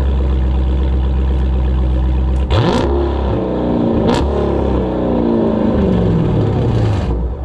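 Muffler-deleted 392 HEMI 6.4-litre V8 with an aftermarket cam idling, then revved sharply about two and a half seconds in. There are two sharp cracks, and the engine speed falls back over the following few seconds.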